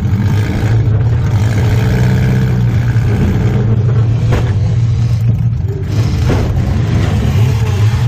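Demolition derby compact car's engine running, heard from inside its stripped-out cabin, with two short knocks about four and six seconds in.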